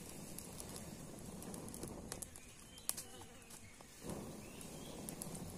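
Small twig campfire being fanned to get it going: soft rushing air in two spells with a lull between, and a few sharp crackles from the twigs.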